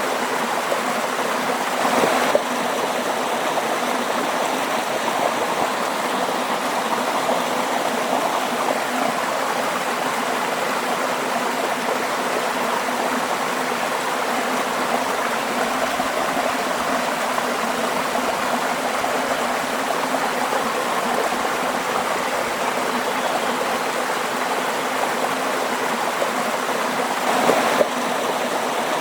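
Waterfall: a steady rush of falling water with a gurgling stream character, briefly swelling a little louder about two seconds in and again near the end.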